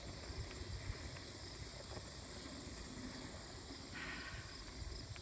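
A steady low rumble and hiss of wind on a phone microphone and rolling noise during a bicycle ride, with a brief rise in hiss about four seconds in.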